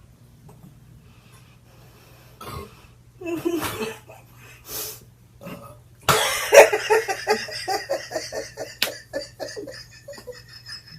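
A person coughing a few times, then bursting into laughter: a quick run of about four or five laughs a second that starts suddenly about six seconds in and fades out. A sharp click comes near the end.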